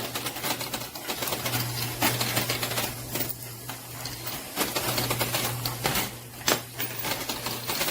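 Quarters clinking and clattering in a coin pusher machine, a run of irregular sharp clicks, over the machine's steady low hum.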